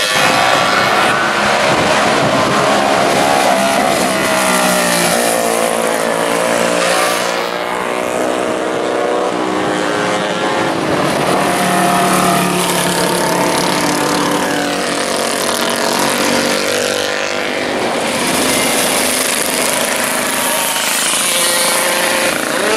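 Classic racing motorcycle engine running hard, its pitch climbing and then dropping back again and again as it accelerates and changes gear, over a steady high hiss.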